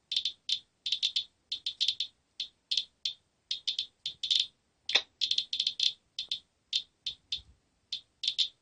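Geiger counter clicking irregularly, about three to four counts a second and often in quick clusters, with one louder click about five seconds in. The counts come from radiation off a used furnace filter held almost a foot below the counter, a reading that is well above background.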